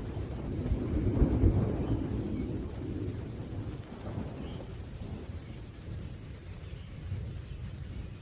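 Rolling thunder rumbling low over steady rain, loudest about a second in and dying away through the rest.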